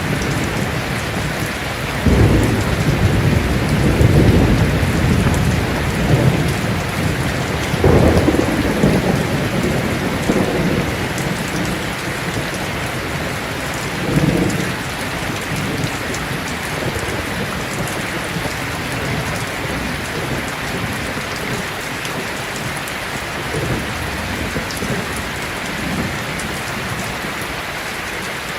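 Heavy rain falling steadily, with thunder: one clap starts sharply about two seconds in and rumbles on for several seconds, another breaks about eight seconds in, and a fainter rumble comes around fourteen seconds.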